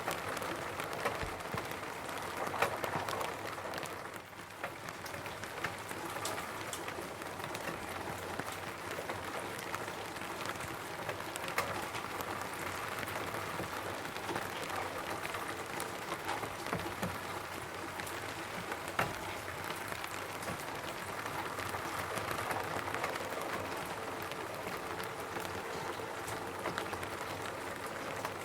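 Steady rain falling on a roof, with single drops striking sharply here and there in the steady patter. It eases briefly about four seconds in.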